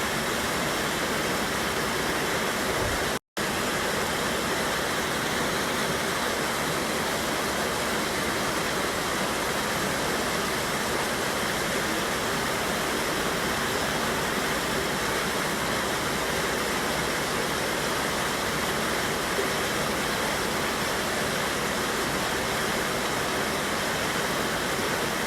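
Mountain river cascading over rocks: a steady, even rush of falling water, cut out for an instant about three seconds in.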